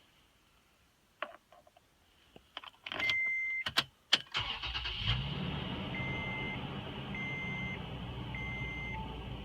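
Toyota Tacoma pickup being started: a few clicks, a chime and a second or so of starter cranking, then the engine catches about five seconds in and settles into a steady idle. A warning chime beeps over the idle a little more than once a second.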